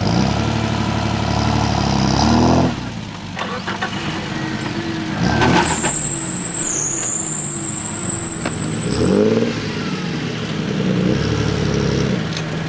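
GAZ-69's four-cylinder side-valve petrol engine under load, revving up and dropping back several times.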